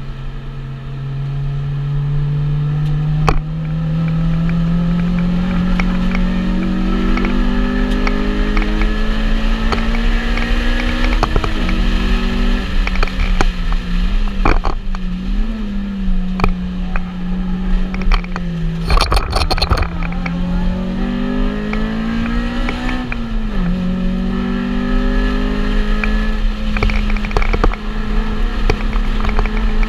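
Car engine at full throttle on a circuit, heard from inside the stripped cabin: the note climbs steadily through the revs, drops back, and climbs again several times as the car accelerates, shifts and brakes for corners. A quick run of sharp knocks and rattles comes about two-thirds of the way through.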